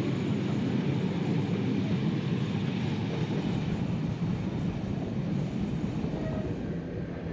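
Carriages of the heritage steam train hauled by locomotive 3801 running along the line, heard from an open carriage window: a steady rumble of wheels on the rails.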